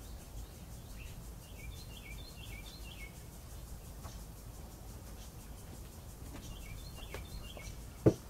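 A small bird chirping in two quick runs of short, high notes over a low steady background. A single sharp knock near the end.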